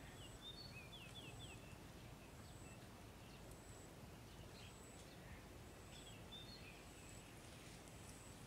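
Near silence: faint rural ambience with small birds chirping, a quick run of chirps about a second in and again around six seconds, and a faint high peep repeating about once a second.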